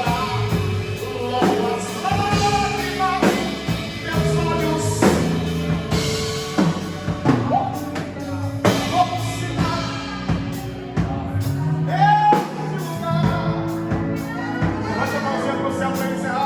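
Live gospel worship band playing, with a singer holding long sung lines over the band and steady drum hits.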